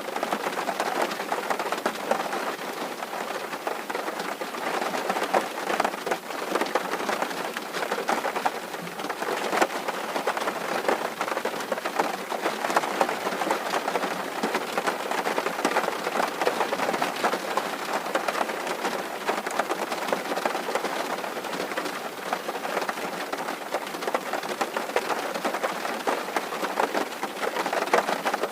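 Steady rain drumming on a tin roof, a dense patter of countless small drop impacts on the metal.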